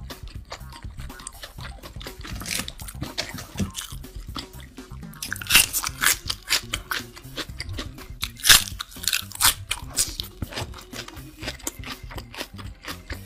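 Close-miked crunchy chewing and biting of a burger, a dense run of crisp crackles with the loudest bursts about five and a half and eight and a half seconds in.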